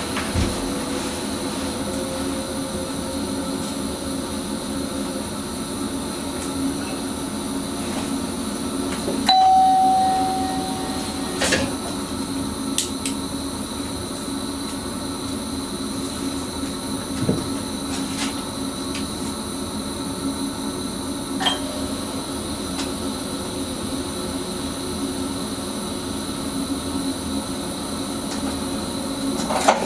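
Inside the driver's cab of an electric Sprinter commuter train running along the line: a steady electrical hum over rolling noise. A single electronic beep lasts about a second and a half about nine seconds in, and a few sharp clicks sound now and then.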